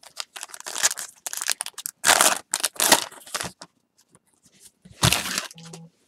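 A baseball card pack's wrapper being torn open and crinkled by hand, in a run of ragged tearing sounds over the first three and a half seconds and another short one about five seconds in.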